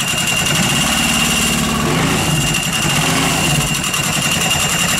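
Turbocharged Kubota diesel engine, a small unit from a refrigerator trailer, running at idle in a custom motorcycle with a fast, even pulsing rumble. A steady high-pitched whine sits over it.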